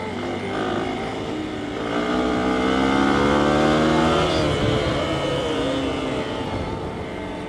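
Hero XPulse 200's single-cylinder engine under way, revs climbing about two seconds in and easing off again around four seconds, over wind and road noise.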